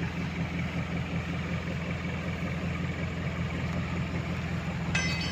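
Tractor engine running steadily at a low, even note. A brief high-pitched squeak comes just before the end.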